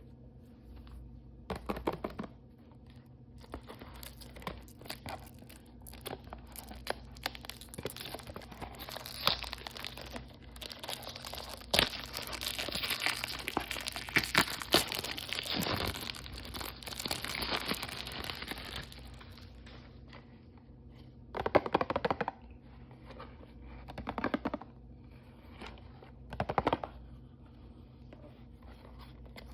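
Blind-bag toy packaging being torn open and crinkled by hand: short rips and rustles, a longer stretch of continuous crinkling through the middle, then a few separate tearing bursts near the end.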